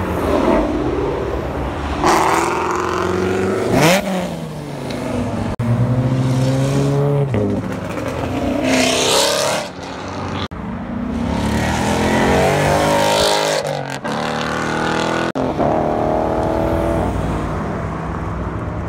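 Several performance cars leaving a car meet one after another, their engines revving and accelerating hard as they pull away. One passes close about four seconds in with a quick rise and fall in pitch, and the sound breaks off abruptly a few times between cars.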